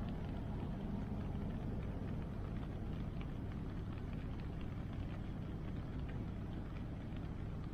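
Steady low rushing of river water and rain, with faint, scattered crackles from a wood bonfire.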